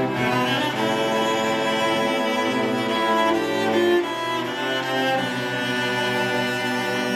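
An elementary school orchestra playing, with violins and cellos bowing sustained, changing notes. It swells to a peak about four seconds in, then eases slightly.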